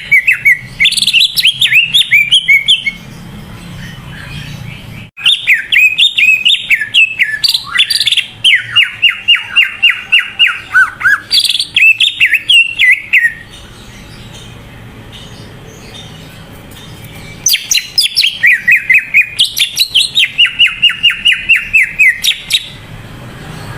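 Green leafbird (cucak ijo) singing loudly in three bouts of rapid, repeated high chirping notes, several a second, many of them falling in pitch, with short pauses between bouts. This is the full 'gacor' song used as a prompt recording to get other cucak ijo singing.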